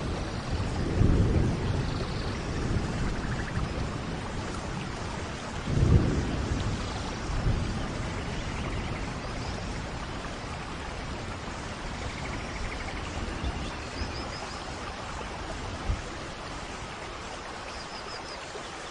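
Steady rain with rolling thunder: a low rumble about a second in, a sharper louder one about six seconds in, then the thunder fades, leaving the rain hiss. A few faint high chirps sound near the end.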